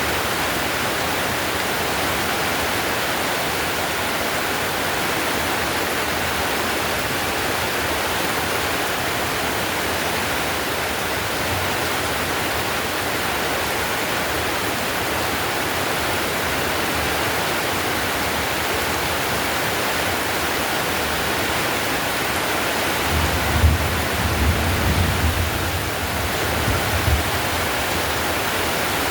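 Heavy rain falling steadily on roof tiles, an even, unbroken hiss. A brief low rumble comes in about three-quarters of the way through.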